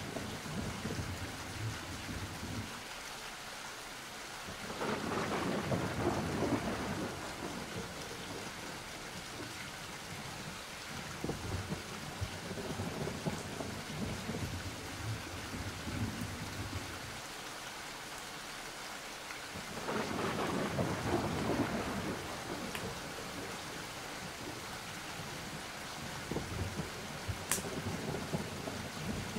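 Steady rain with rolls of thunder, two louder rumbles swelling about five seconds in and again about twenty seconds in.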